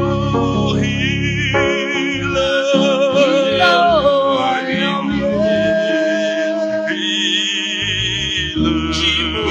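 Worship song: singing with wavering, vibrato-laden held notes over steady keyboard chords and bass.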